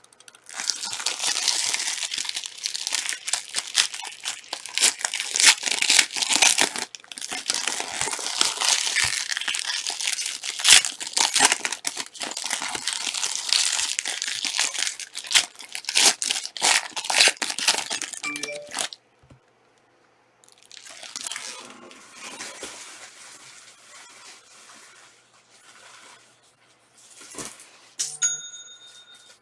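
Trading card pack wrappers being torn open and crinkled, a dense crackling for about the first two-thirds, then quieter handling. A short ding sounds near the end.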